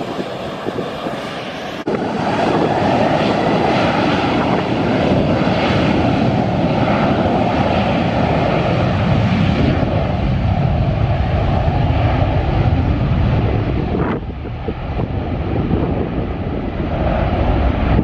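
Airliner's engines roaring as it passes close by the runway end. The roar rises sharply about two seconds in, holds steady, and eases off near the end.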